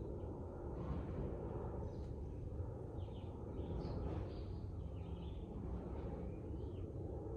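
Several birds chirping in short, scattered calls, some sliding in pitch, over a steady low rumble.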